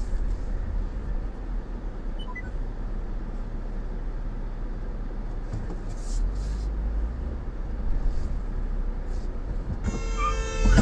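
Steady low road and engine rumble of a car driving, as picked up by a dashcam. Near the end a sustained high pitched tone starts.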